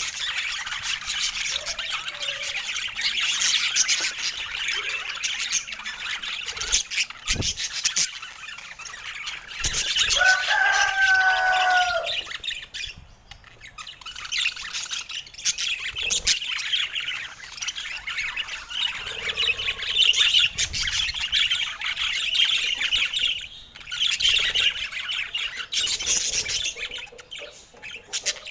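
Budgerigars chattering and warbling continuously in quick chirps. About ten seconds in, one bird gives a longer, clearer call lasting a couple of seconds.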